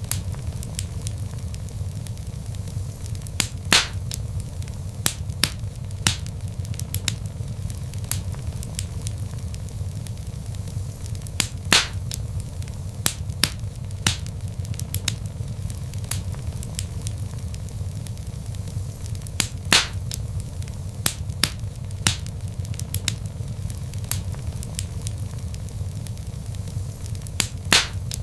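Wood fire in a fireplace crackling: irregular sharp pops and snaps over a steady low rumble of the flames, with a few louder pops several seconds apart.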